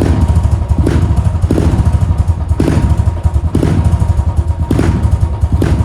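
Motorcycle engine running loud and low, with a sharp accent about once a second.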